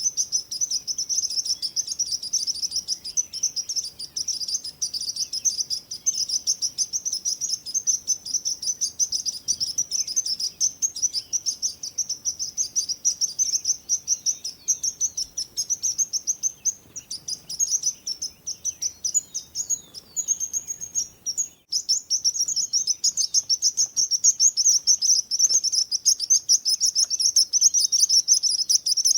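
Small songbirds chirping rapidly and without pause in a dense, high-pitched chorus, with a momentary break about three-quarters of the way through.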